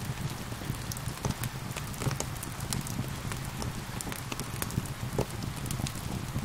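Rain falling steadily, mixed with a wood fire crackling and popping in irregular sharp snaps over a low rumble.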